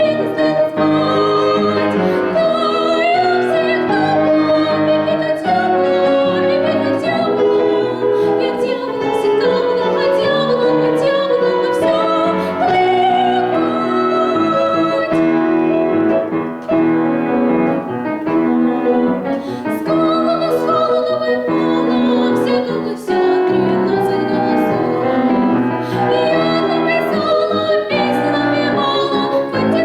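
A young girl's solo voice singing an operetta song in a classical style with vibrato, accompanied by piano.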